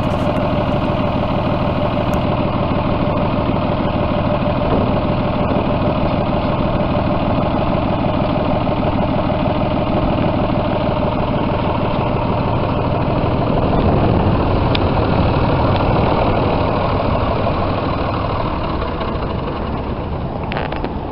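John Deere 5205 tractor's three-cylinder diesel engine running steadily. It grows louder for a few seconds about two-thirds of the way through, then slowly fades.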